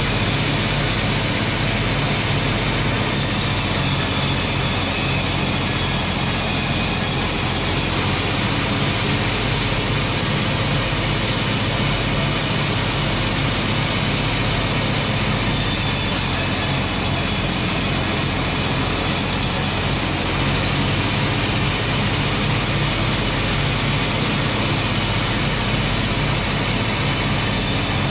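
A large machine running steadily under a constant low engine drone, with a dense, even noise over it and no separate knocks or pauses.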